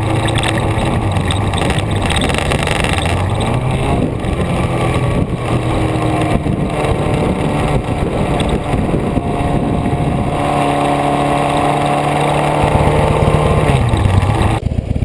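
A vehicle engine running on the road, its pitch rising and falling with throttle and gear changes, under a steady rush of wind and road noise. Near the end the hiss cuts off suddenly and the engine goes on alone.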